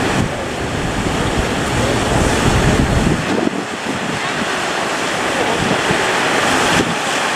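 Sea surf breaking with wind buffeting the microphone; the low rumble of the wind drops away about three seconds in.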